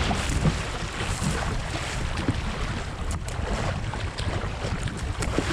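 Fast river water rushing and splashing through a rapid, with wind buffeting the microphone as a heavy low rumble.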